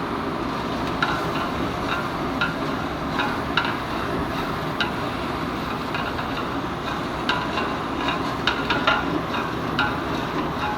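Metal utensil clanking and scraping against a large cooking pot as chicken gizzards are stirred: irregular ringing knocks, more frequent in the second half, over a steady rushing noise.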